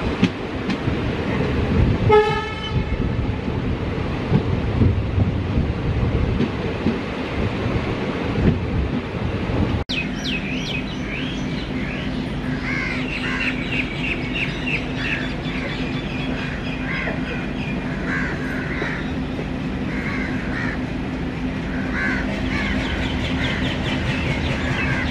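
Passenger train running at night, heard from the coach doorway: wheels clattering over the rail joints, with a short horn toot about two seconds in. After a sudden break the clatter gives way to a steady low hum and high wavering squeals that come and go as the train moves slowly along the platform.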